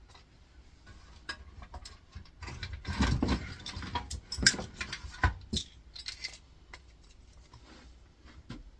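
Small metal parts of an air fryer's fan assembly clicking and clinking as they are handled and worked off the motor shaft, with a louder scraping rattle about three seconds in.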